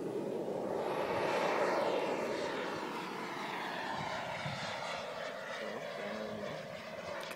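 Radio-controlled model F-16 jet flying past: a steady jet rush that peaks about two seconds in, then drops in pitch and fades as the jet moves away.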